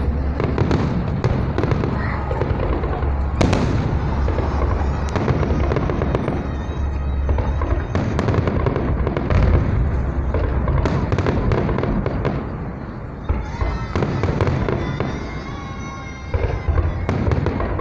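Fireworks display going off in quick succession: a dense run of overlapping bangs and bursts with crackling between them.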